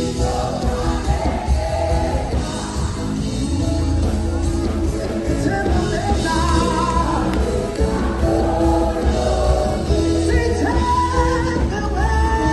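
Band music with singing: sung vocal lines over a strong, steady bass.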